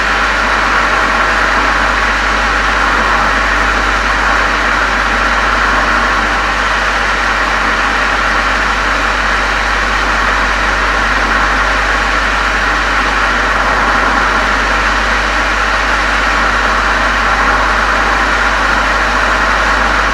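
Exhaust of a VW Golf 7 GTI's 2.0-litre turbocharged four-cylinder, fitted with an aftermarket COX muffler and chamber, running at a steady, even note with no revving.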